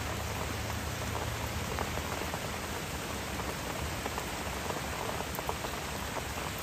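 Steady rain falling, with many small drops ticking on the surfaces around.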